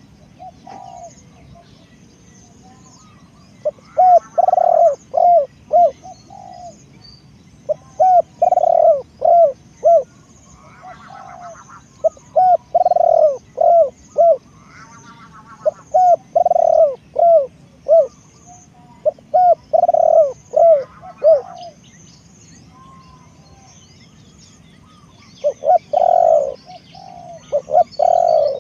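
Spotted doves cooing: phrases of four to six low coo notes, repeated about every four seconds, with a pause of a few seconds near the end. Small birds chirp faintly and high in the background.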